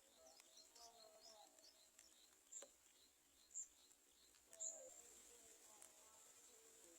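Faint bird chirping: a quick run of short, high, falling twitter notes in the first two seconds, then scattered single high chirps. A thin steady high whine joins about two-thirds in.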